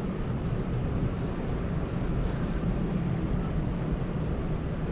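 Steady low rumble of background room noise with a faint hum, with no distinct events.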